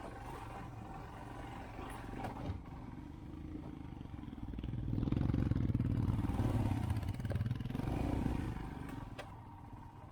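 Royal Enfield Himalayan motorcycle's single-cylinder engine running on a rough trail, pulling harder and growing louder about halfway through for a few seconds, then easing off. A couple of sharp knocks are heard, one early and one near the end.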